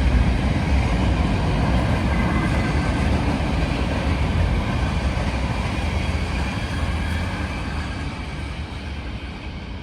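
Freight train rolling past: a steady rumble of wheels on rail from the manifest freight's cars, fading away over the last few seconds.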